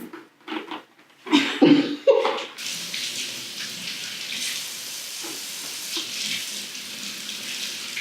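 A few brief loud sounds, then a tap is turned on about two and a half seconds in and runs steadily while hands are washed under it.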